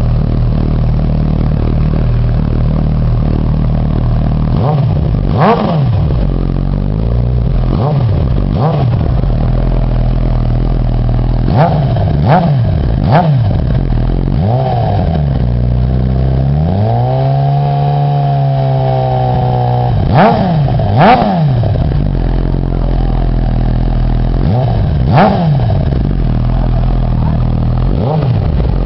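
Suzuki GSX-R1000 inline-four motorcycle engine idling through its exhaust, blipped with about a dozen quick throttle revs that rise and drop straight back, and one longer rev held for about three seconds a little past the middle.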